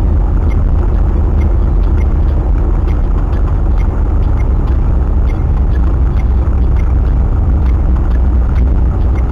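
Strong wind buffeting the microphone: a loud, steady, heavy rumble, with faint regular ticking above it.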